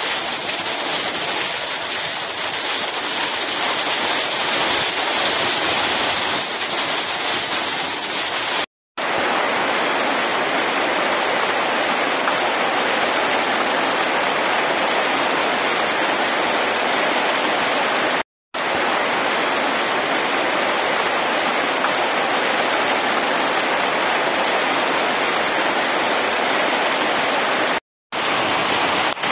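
Heavy rain pouring steadily onto pavement, lawn and leafy hop vines, an even hiss that drops out for an instant three times.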